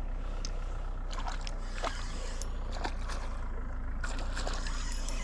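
Water splashing and sloshing as a small hooked pike is brought in on an ultralight rod, with scattered small clicks over a steady low rumble.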